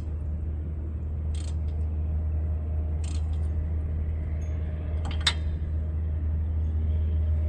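A steady low rumble, with a few sparse metallic clicks of a hand tool working a brake caliper bolt; the sharpest click comes about five seconds in.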